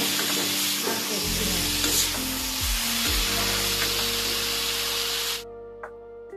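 Vegetables sizzling in hot oil in an iron kadai while being stirred with a metal spoon. The frying sound cuts off suddenly about five seconds in, leaving soft background music.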